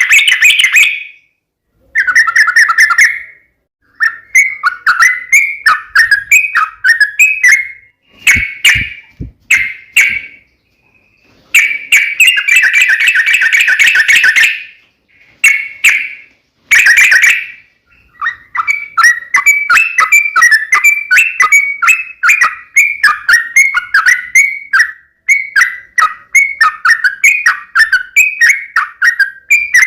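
Yellow-vented bulbul calling loudly in bursts of quick bubbling notes with short pauses between them, then chattering almost without a break over the last third.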